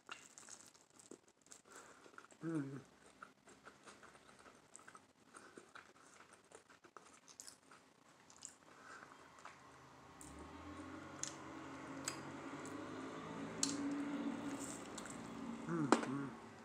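A person biting into and chewing toasted wheat bread with avocado and egg close to the microphone: small crunches and wet mouth clicks. In the second half there is a low hum through a full mouth.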